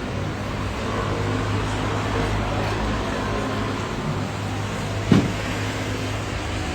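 Steady low engine drone of airport background noise, with a constant low hum under it. One sharp knock comes about five seconds in.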